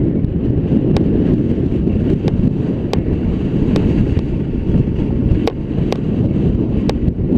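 Wind buffeting the microphone, a loud, steady low rumble, with several sharp clicks scattered through it.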